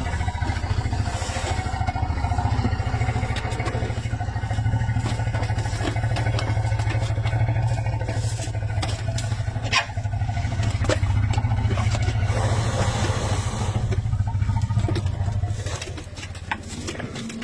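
Female Asian elephants rumbling together: a deep, steady low rumble that holds for most of the stretch and fades near the end, with scattered clicks and scrapes over it.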